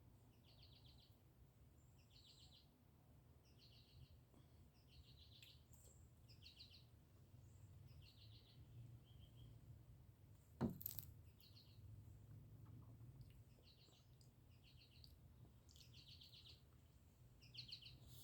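Faint small birds chirping, short repeated calls about once a second. A single sharp knock about ten and a half seconds in.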